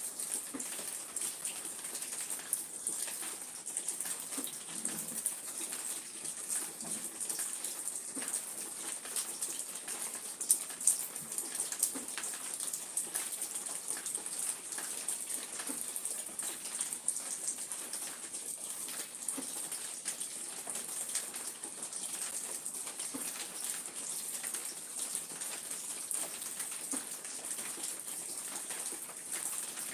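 Steady rain falling, a constant hiss with many individual drops ticking on surfaces.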